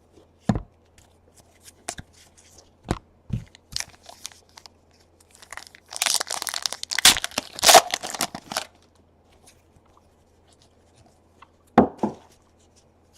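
A baseball card pack wrapper being torn open and crinkled, a dense crackling stretch of about two and a half seconds starting some six seconds in. Scattered light taps and clicks of cards being handled come before and after it.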